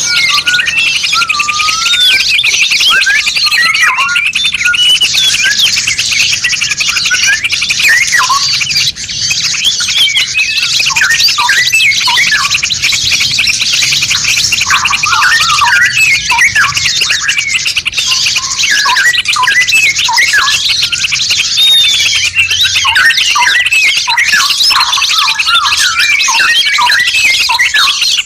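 Dense chorus of many songbirds layered together, a masteran track for training caged birds: rapid chirps, short whistles and twittering trills overlapping without a break.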